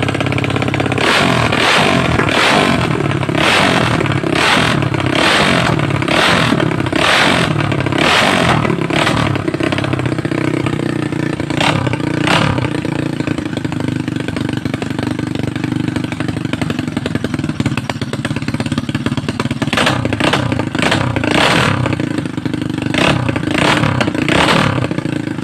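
Motorcycle engine through a full titanium open exhaust with an idle rumbler, idling with a lumpy rumble and blipped repeatedly in short throttle revs, about one a second in the first several seconds, then mostly idling with an occasional blip, then another run of quick revs near the end.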